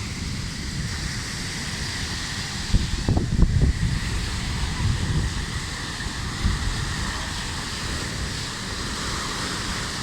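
Sea surf washing onto a beach, with wind buffeting the microphone; the wind gusts hardest about three seconds in.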